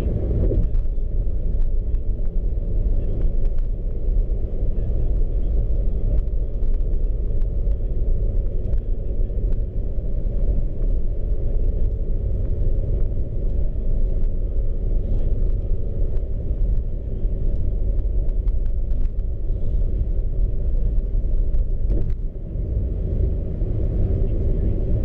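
Steady low rumble of road and engine noise inside a car driving at speed.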